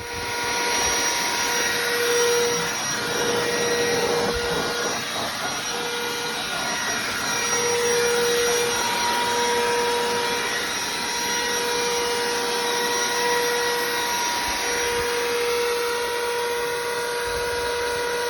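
Vacuum cleaner running steadily, with a constant whine over its rushing noise, cleaning out a car.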